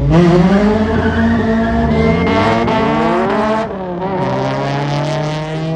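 A car engine revving, its pitch climbing steadily for about three seconds, then falling back to a lower, steady note.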